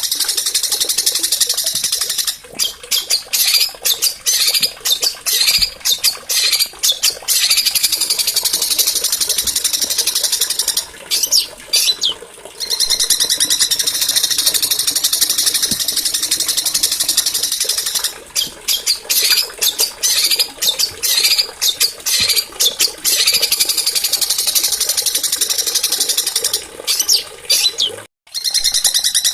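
Small songbirds singing rapid, high-pitched trills and chatter almost without pause, broken by a few brief gaps. The sound cuts out completely for a moment near the end.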